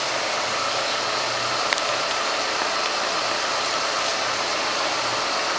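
Ford Ka 1.0 Rocam four-cylinder engine idling steadily under a constant rushing noise, with one small click about two seconds in.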